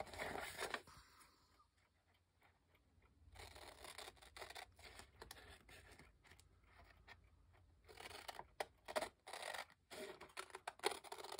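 Scissors cutting out a printed paper image, a faint run of small irregular snips with a pause about two seconds in.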